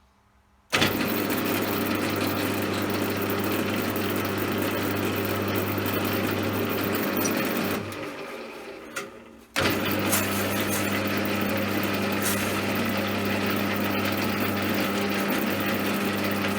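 CJM360 benchtop metal lathe running with a steady hum and whir. It starts suddenly less than a second in, winds down over a couple of seconds about eight seconds in, then starts again abruptly and runs on.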